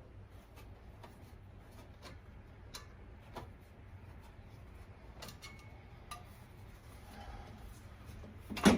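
Scattered light clicks and taps of hand tools and metal parts being handled, then one loud clunk near the end.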